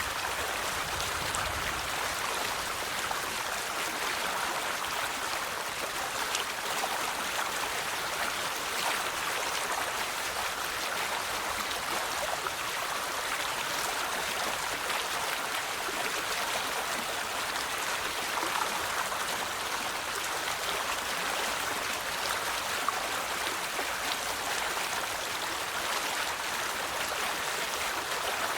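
River water flowing over stones: a steady rushing with small splashes and trickles, even in level throughout.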